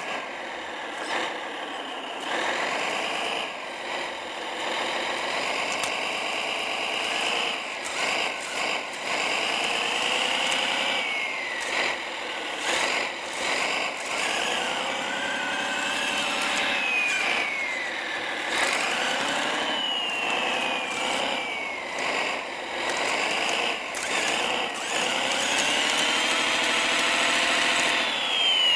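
A Kyosho Blizzard radio-controlled snowcat's Servonaut SMX sound module plays a snowcat diesel engine sound through its speaker. The engine sound is revved up and down again and again, its pitch rising and falling every few seconds, with short clatters in between.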